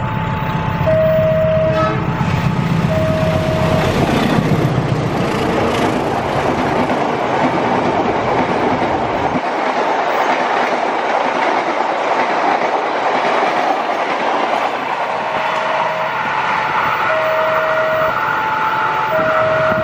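Diesel-hauled passenger train passing a level crossing at speed. The locomotive's engine rumble dies away about nine seconds in, leaving the steady rush and clatter of the coaches' wheels on the rails. Over this, the crossing's electronic warning bell rings in alternating two-tone beeps, heard clearly at the start and again from about fifteen seconds in.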